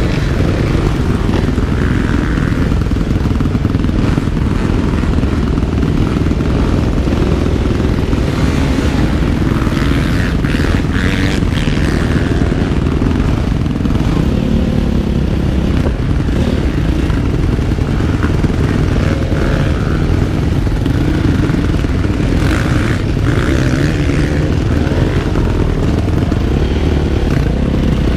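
Motocross motorcycle engine running hard, heard on board, its pitch rising and falling as the throttle opens and closes, with scattered knocks and clatter.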